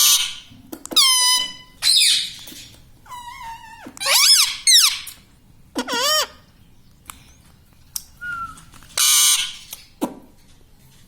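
Indian ringneck parakeet calling: a run of shrill squawks mixed with whistled calls that slide and step in pitch.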